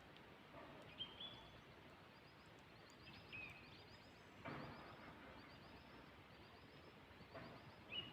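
Near silence with faint birdsong: a few short chirps and a run of quick, soft high notes, with a couple of soft rustles about halfway through and near the end.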